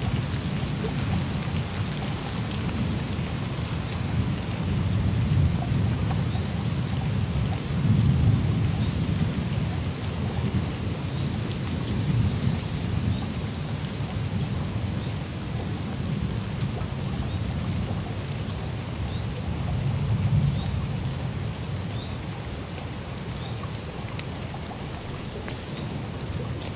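Steady rain falling, with low thunder rumbling and swelling several times underneath it.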